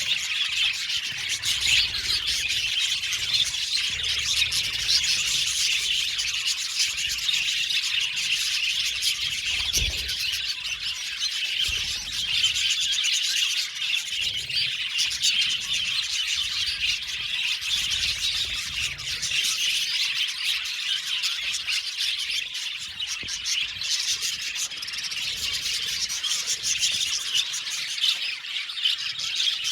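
A flock of budgerigars (budgies) chirping and chattering continuously, many birds calling over one another, with a faint low rumble now and then and a brief soft thump about ten seconds in.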